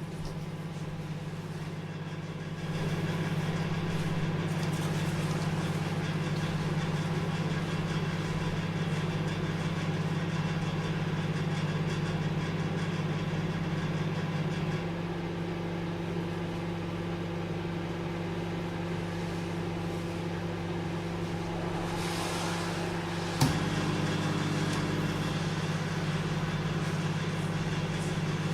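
Microwave oven running with a steady low hum. It gets louder a few seconds in, quieter about halfway, then a sharp click near the end brings the louder hum back.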